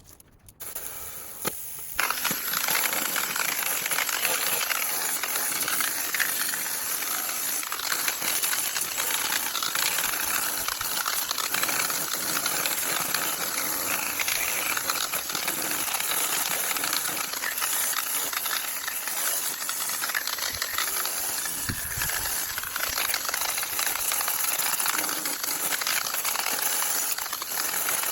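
Steady, scratchy hissing as the stainless steel of a Snow Peak fire pit is cleaned. It starts about two seconds in and runs on without a break.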